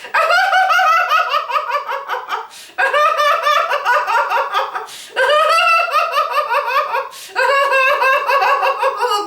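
A woman laughing heartily in four long bouts of rapid ha-ha-ha pulses with short pauses between them. This is deliberate laughter-yoga laughter.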